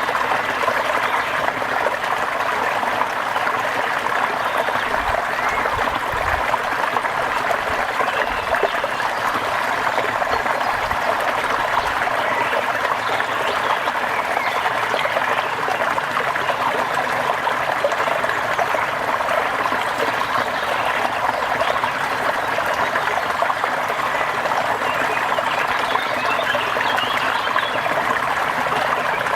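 Steady rain falling: an even, dense hiss of many drops that holds at the same level throughout.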